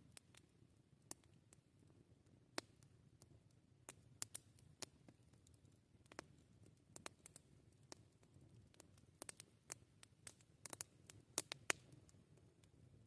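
Wood campfire crackling: irregular sharp pops and snaps, sparse at first and coming more thickly about nine to twelve seconds in, over a faint low rumble.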